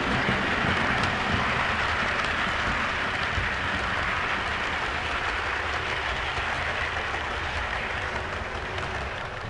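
OO gauge model diesel train running along the track, a steady rumbling hiss of motor and wheels on the rails that eases slightly toward the end.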